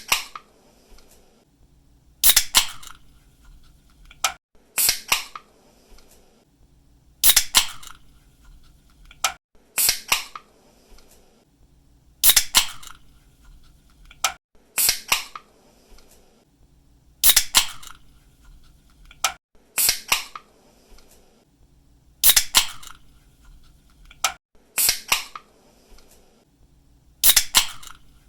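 Aluminium soda or energy-drink can opened again and again, about every two and a half seconds: a small click as the pull-tab is lifted, then a sharp snap as the tab breaks the seal, followed by a short hiss of escaping carbonation.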